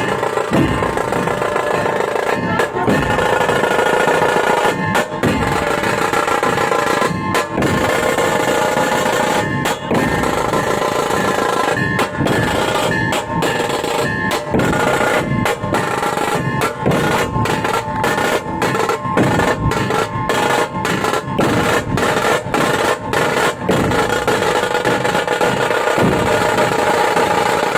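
Live drum band playing fast, continuous drumming, with a steady held melody sounding over the beat.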